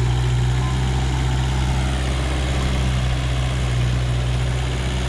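Backhoe engine running steadily at a low, even pitch.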